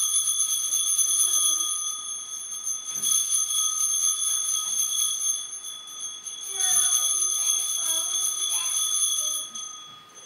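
Sanctus bells (a cluster of small altar bells) shaken in three bouts of bright, high ringing, the last dying away near the end. They are rung at the elevation of the chalice right after the consecration of the wine.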